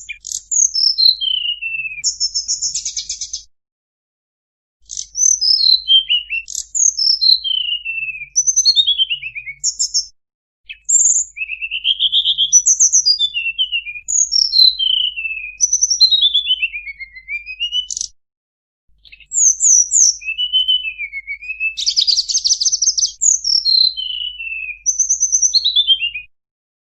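Tledekan gunung singing: a run of high, quick whistled phrases that mostly slide downward, with a couple of rapid buzzy trills and three short pauses.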